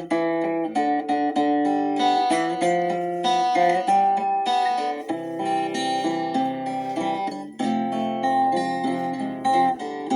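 Instrumental music: acoustic guitar picking a steady run of single plucked notes, each note ringing briefly.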